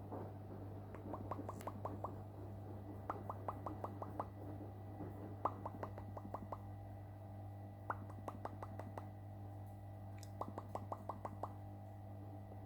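Alexandrine parrot making quick soft clicks in short runs, about seven clicks in a second, with each run coming back every two to three seconds over a steady low hum.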